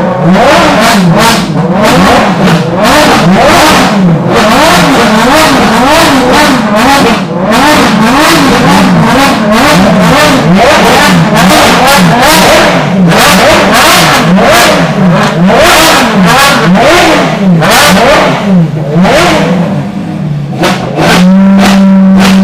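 Ferrari track-car V12 engines revving hard in quick repeated blips, the pitch rising and falling about once a second. Near the end the revs are held at one steady pitch.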